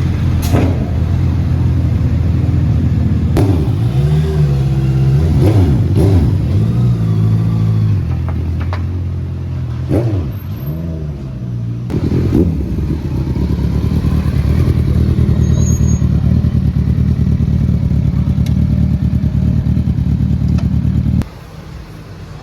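Sport motorcycle engines running loudly and being revved, the pitch swinging up and down several times in the first half, then a long steady run at high level that cuts off abruptly near the end.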